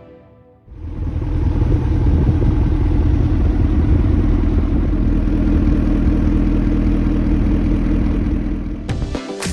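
McLaren 650S Spider's twin-turbo V8 starting up about a second in, then running steadily at idle. Background music comes back in near the end.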